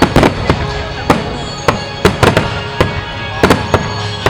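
Starmine fireworks display: a rapid, irregular string of about a dozen sharp shell bursts, each echoing, with music playing underneath.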